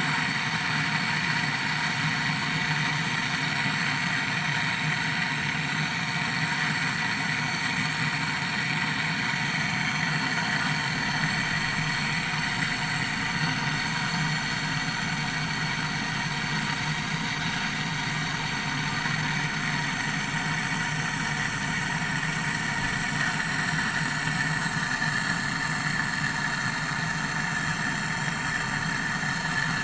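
Window air conditioner running: a steady, unchanging mechanical hum from its compressor and fan.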